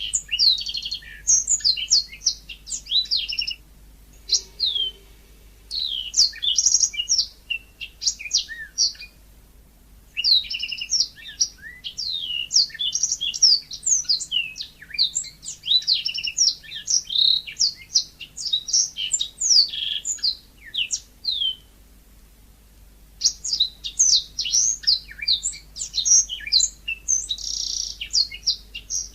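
Yellow-fronted canary (Mozambique canary) singing a rapid, varied song of high chirps and trills. The song comes in long phrases broken by a few brief pauses.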